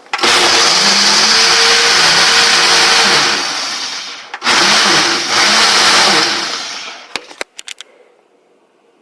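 Countertop blender running in two loud bursts, the motor pitch wavering as it churns, with a short pause between them. A few sharp clicks follow near the end.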